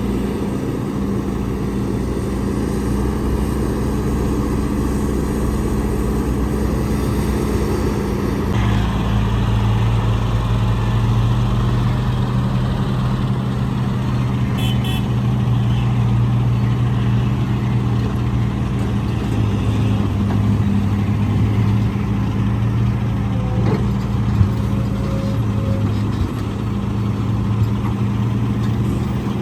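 Heavy diesel engine of earthmoving machinery running steadily; about eight seconds in its note shifts lower and stronger and holds there.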